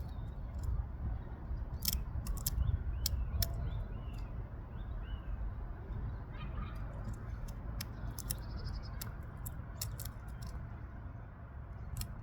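Irregular sharp taps of a woodpecker pecking, single knocks with a quicker cluster about eight to ten seconds in, over faint short bird chirps and a low rumble.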